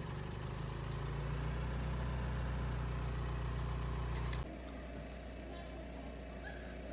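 Car engine idling, heard from inside the cabin as a steady low hum. It cuts off abruptly about four seconds in, leaving a quieter steady background with a few faint ticks.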